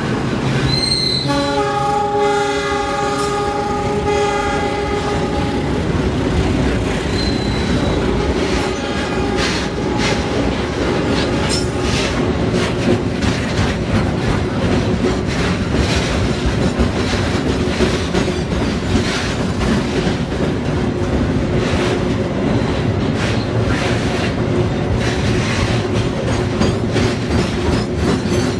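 Container freight train passing close by: flatcar wheels clatter rapidly over the rail joints above a steady rumble. The locomotive's horn sounds a chord of several tones for the first few seconds and fades out about six seconds in.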